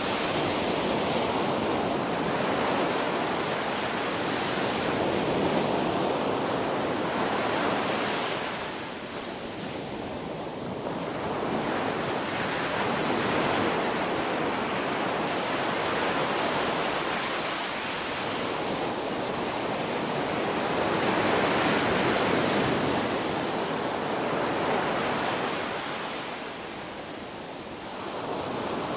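Ocean surf breaking on a beach: a continuous rushing wash of waves that swells and eases, with a lull about a third of the way in and another near the end.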